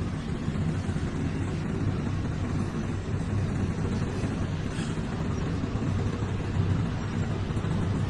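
Heavy truck diesel engine running steadily at constant speed, a low even hum, as concrete pump and mixer trucks do during a slab pour.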